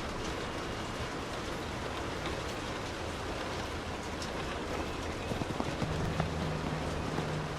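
Steady rain falling, an even hiss of drops, with a few louder single drips in the second half. A low steady hum joins about six seconds in.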